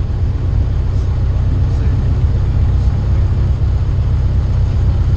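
Cessna 152's four-cylinder Lycoming engine and propeller running steadily, a constant low drone heard from inside the small cockpit.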